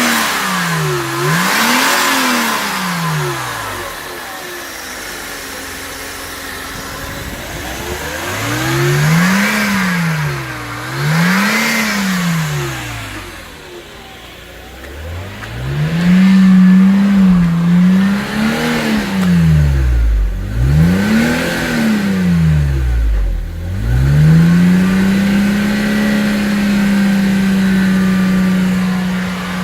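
Mercedes-Benz M103 2.6-litre straight-six engine being revved in a series of throttle blips, each rising and falling back, with short spells of idle between. Near the end it is held at steady high revs for a few seconds, then drops back.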